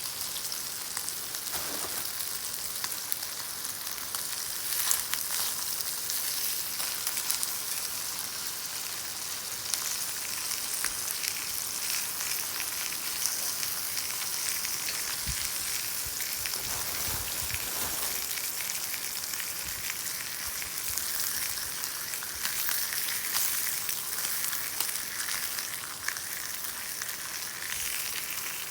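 Beef sizzling in a cast-iron pan over a wood fire: a steady high hiss with fine crackling and spitting throughout, and a few low thumps around the middle.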